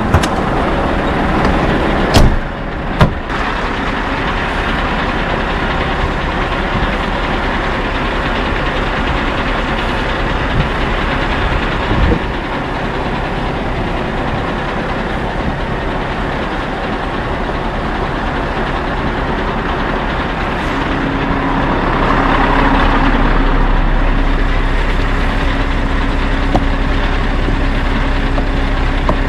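Scania R580 truck's V8 diesel engine idling steadily, with a few sharp knocks about two and three seconds in and another near the middle. Late on, a steady low hum joins and the sound grows a little louder.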